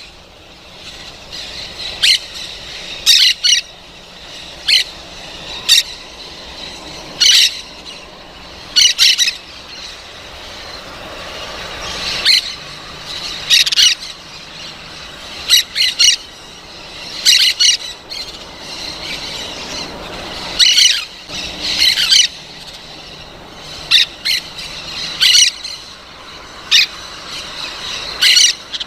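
Parrot squawks: short harsh calls repeated every second or two throughout, some coming in quick pairs or clusters.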